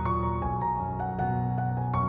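Background music: soft piano-like keyboard notes played one after another over a steady low bass.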